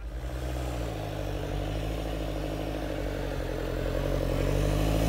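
Engines of off-road 4x4s running steadily on a snowy track, getting louder through the second half as a vehicle comes closer.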